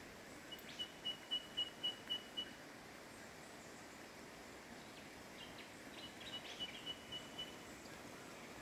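A bird calling in two runs of short, high piping notes on one pitch, about four notes a second, over a faint steady hiss of the bush.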